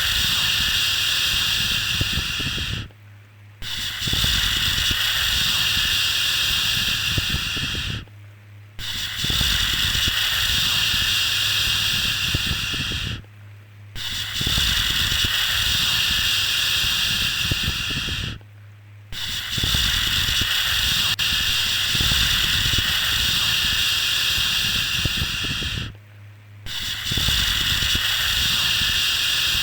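Long 'shhh' shushing sounds for soothing a baby, each lasting about four to seven seconds, repeated with short breaks in between. A steady low hum runs under them.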